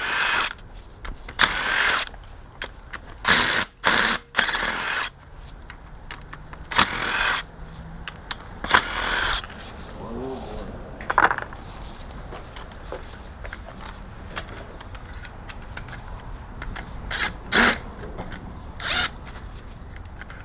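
Power tool run in short bursts of about a second, several in quick succession and then a few shorter ones later, loosening bolts on the engine's lower end during teardown.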